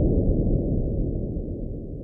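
A low, deep rumble with nothing above it fades away steadily: the dying tail of an intro sound effect.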